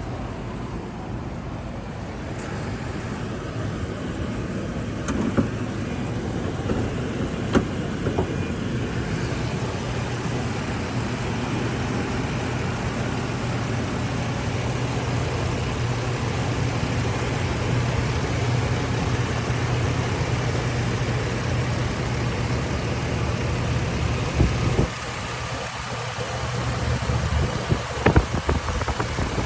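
A vehicle engine idling steadily, with a few sharp clicks in the first several seconds. About 25 s in, the low hum thins out, and a few knocks follow near the end.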